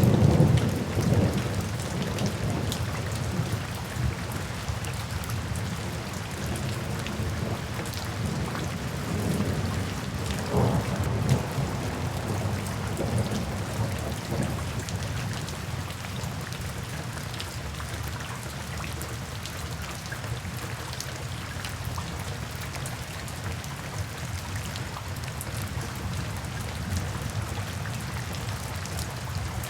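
Steady rain falling, with rolling thunder: a loud low rumble at the start that dies away over a few seconds, and a lighter roll around ten seconds in, then rain alone.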